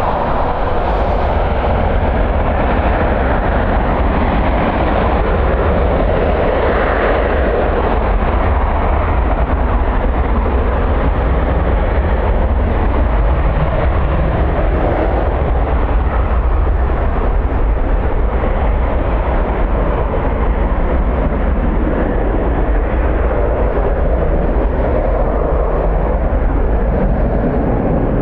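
Strong wind blowing across the microphone in a steady, loud rumble, with a deep low buffeting underneath.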